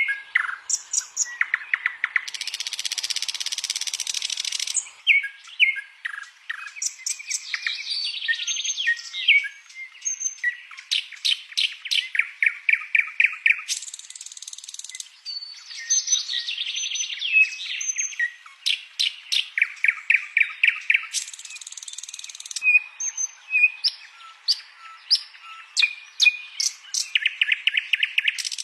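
Songbird song without a pause: quick chirps and fast machine-gun series of repeated notes, broken several times by harsh buzzy rasps that last one to three seconds.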